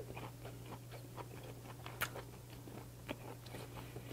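A person chewing a mouthful of a wrap of grilled Korean beef, shiitake mushroom and pickled perilla leaf, with closed-mouth chewing and small mouth clicks, one sharper click about two seconds in. A low steady hum runs underneath.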